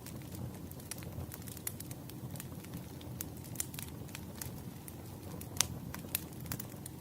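Firewood burning: a steady low rumble of flames under frequent sharp crackles and pops, with a louder pop about five and a half seconds in.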